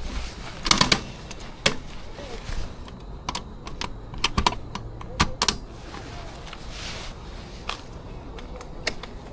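A series of irregular sharp clicks and taps, like hard plastic or metal being handled, loudest about a second in and again in a cluster around the middle, over a low background hum.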